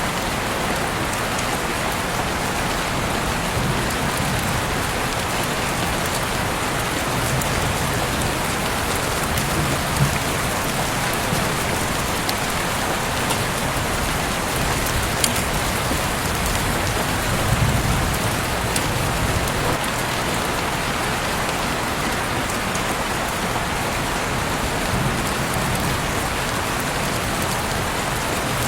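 Heavy rain falling steadily, with occasional sharper drips and faint low rumbles swelling now and then.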